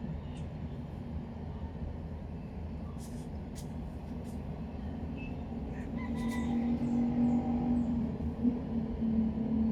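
A steady low rumble of a passing vehicle, with an engine hum that grows louder from about six seconds in.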